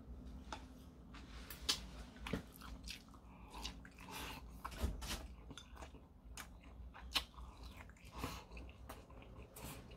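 A person biting into and chewing a piece of Spam rolled omelette close to the microphone, with irregular sharp mouth clicks and smacks.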